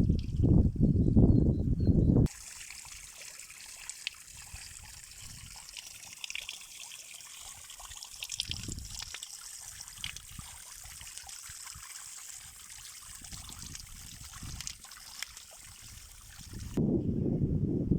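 Water trickling, a steady fine hiss with small splashes and clicks. It cuts in suddenly about two seconds in, after loud low rumbling, and the rumbling cuts back in near the end.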